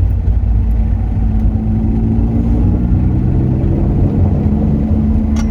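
Turbocharged Toyota MR2 Roadster's 1ZZ-FE four-cylinder engine running gently under a steady low rumble while it warms up to temperature, heard from inside the car. Its pitch eases slightly lower, then holds steady, and there is a short click near the end.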